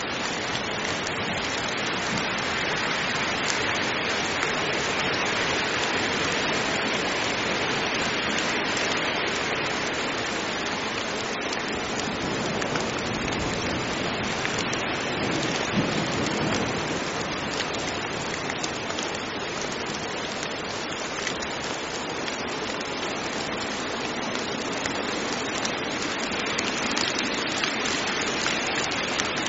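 Heavy rain falling steadily, a constant even hiss with no thunder.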